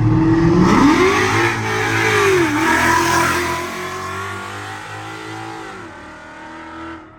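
A V8 car engine revs, its pitch rising and then falling, then pulls away with its sound fading over several seconds before cutting off suddenly near the end.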